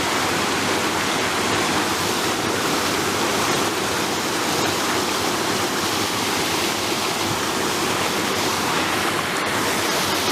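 Mountain headwater stream rushing steadily, a loud, even wash of flowing water.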